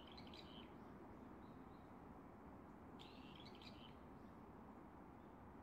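A bird singing faintly in short phrases of several high notes, one phrase at the start and another about three seconds in, with a few faint single chirps between, over a steady low background hiss.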